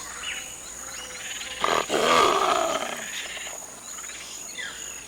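A jaguarundi growling once, a rough call about a second long starting about a second and a half in. Short falling bird whistles and a steady high insect drone of tropical forest sound around it.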